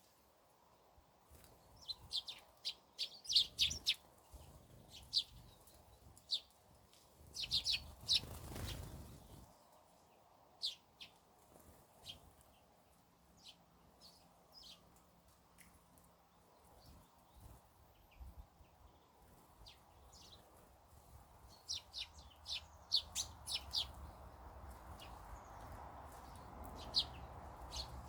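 Small garden birds chirping in quick clusters of short, high notes, with quieter gaps between them, and a brief rustle of noise about eight seconds in.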